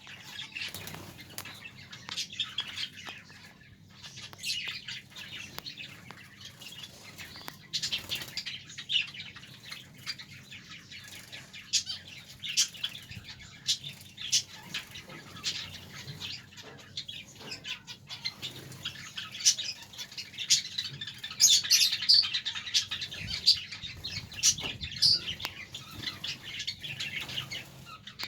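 Several small birds chirping over and over, with frequent sharp clicks and wing flutters; the chirping gets busier in the second half.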